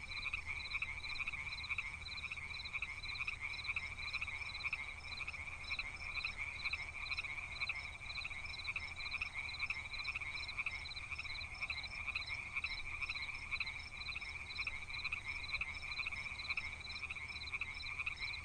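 Chorus of frogs in a flooded rice paddy, steady rapid pulsing calls, several a second, overlapping without pause, over a faint low rumble.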